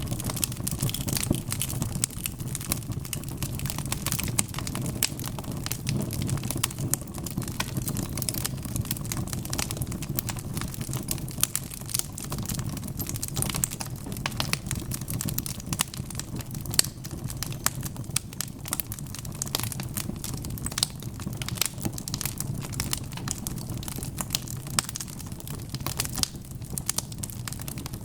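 Wood fire crackling: a steady stream of small, irregular pops and snaps over a low, even rush of flame.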